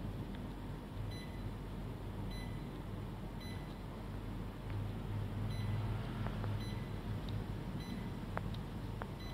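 Faint short electronic beeps repeating about once a second over a steady low hum, with a few light clicks near the end.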